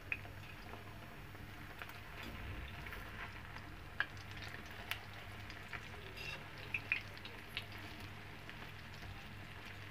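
Egg-dipped bread cutlets shallow-frying in hot oil on a tawa: a faint steady sizzle with scattered small pops and clicks as a metal spatula turns them.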